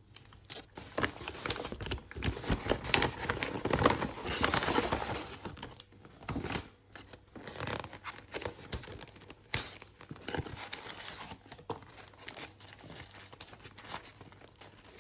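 Paper food wrapper crinkling and tearing as a burger is unwrapped, in irregular bursts of rustling that are loudest a few seconds in and then thin out.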